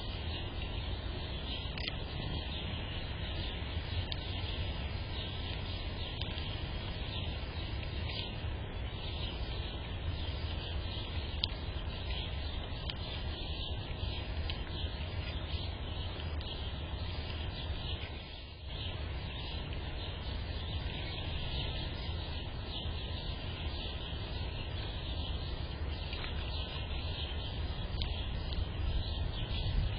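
Steady outdoor background noise: a low rumble with a fainter hiss higher up, dipping briefly a little past halfway.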